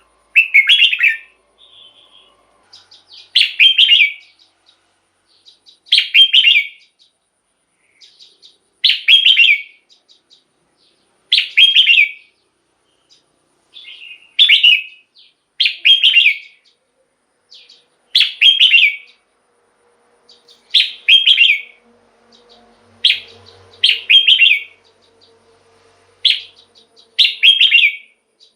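A red-whiskered bulbul singing short, loud, whistled phrases, each about a second long and repeated every two to three seconds, about a dozen in all.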